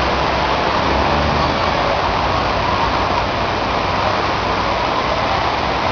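Heavy rain and running floodwater making a loud, steady rush, with a low vehicle engine rumble underneath.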